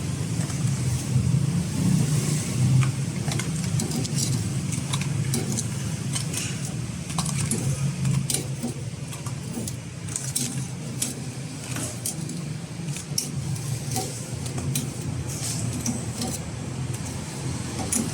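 Metal utensils clinking and tapping many times, in short sharp clicks, over a steady low hum.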